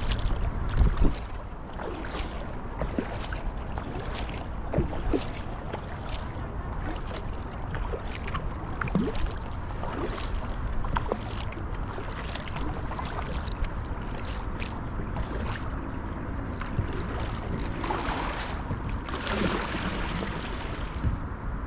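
Kayak paddle dipping into the water, with small splashes and drips, and a louder swash of water near the end. Wind rumbles on the microphone underneath.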